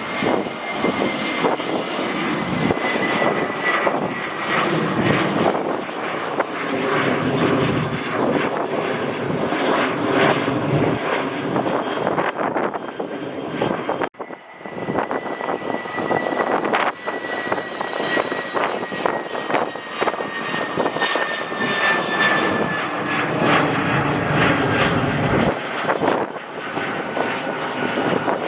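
Airliner engines running loud as an aircraft passes, a steady roar with a high whine that slowly falls in pitch. About halfway through the sound breaks off abruptly, and a second stretch of the same roar and falling whine follows.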